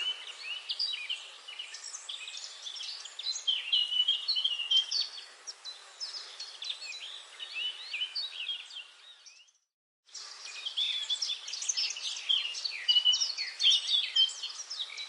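Dense chorus of many songbirds chirping and trilling at once. About two thirds of the way through it fades to silence and comes back abruptly a moment later.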